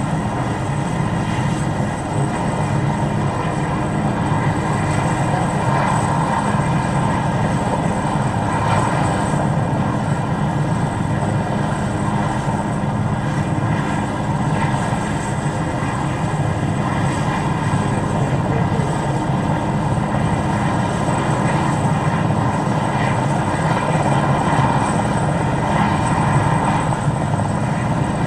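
Airbus H215 Super Puma twin-turbine helicopter running steadily, rotor and engine noise with a thin, high, steady turbine whine over it.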